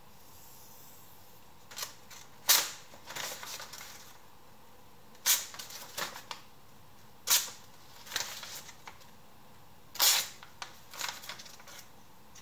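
Short, sharp, high-pitched scrapes of a steel knife blade, a loud stroke every two to three seconds with softer scrapes after each.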